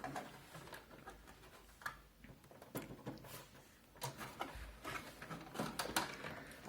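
Scattered plastic clicks, creaks and scrapes of a Zalman Z11 Neo computer case's front panel being pried off its snap clips, with the stuck middle clip straining the case. The handling sounds come thicker in the second half.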